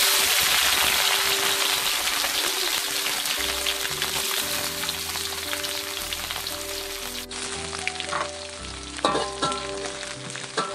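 Small dried anchovies dropped into hot oil in a wok and frying: a loud sizzle that starts suddenly and slowly dies down. A few scrapes of a metal spatula against the wok come near the end as the fish are stirred.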